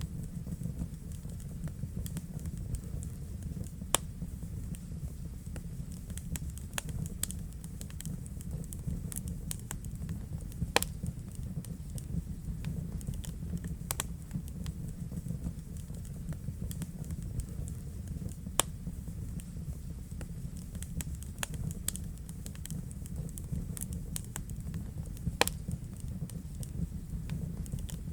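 Wood fire crackling in a fireplace: irregular sharp crackles and pops over a steady low rumble of the flames, with a few louder pops standing out, about four across the stretch.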